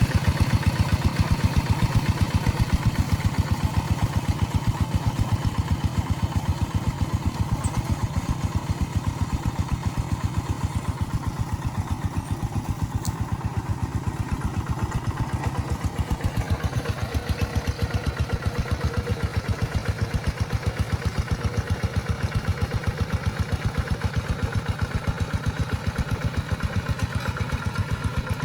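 A rice-field tractor's engine running steadily with a rapid, even chugging beat.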